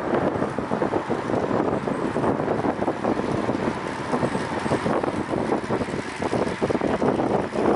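Wind buffeting the microphone of a camera on a moving bicycle ride: a steady rushing noise with rapid flutter and no pauses.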